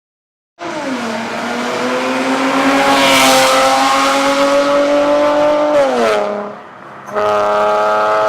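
Porsche Panamera S (970) engine and exhaust running loud. The note drops quickly at first, climbs slowly for several seconds, falls back and quietens around six seconds in, then comes in loud and steady again about a second later.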